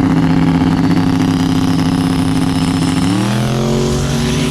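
Race car engine at high revs under full throttle, held steady, with a gear change about three seconds in: the pitch drops, then climbs again.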